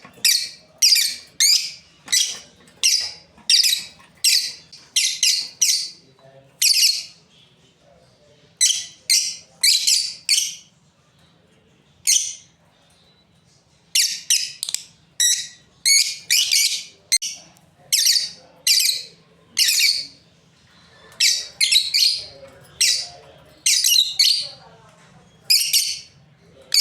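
Lovebirds chirping, with shrill, short calls repeated in quick bursts and a pause of a few seconds around the middle.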